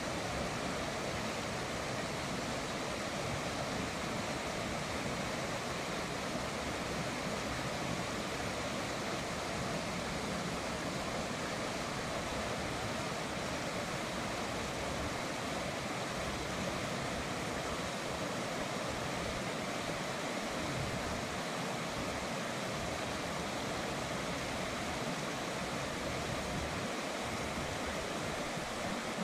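River water flowing and rushing steadily, an even unbroken wash of noise.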